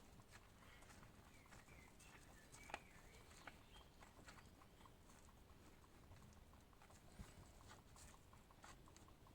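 Near silence: faint scattered clicks and ticks over low background noise.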